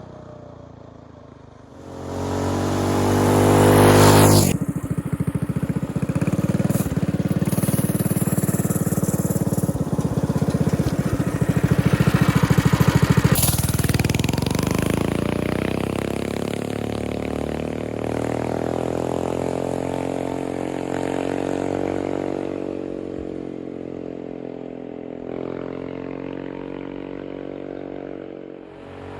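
Coleman CT200U-EX mini bike's single-cylinder engine, fitted with an aftermarket exhaust, starting about two seconds in and revving up hard. It keeps running, revs high again about halfway through, then settles to a steadier, lower speed.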